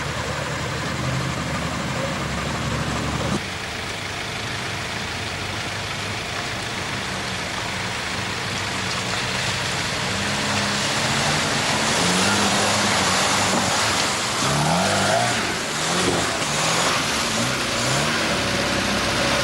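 Off-road 4x4 engines working in deep mud: first a Land Rover's engine running steadily, then the engine of a modified Suzuki SJ410 (the 'Forduki') revving up and down again and again as it drives through the mud.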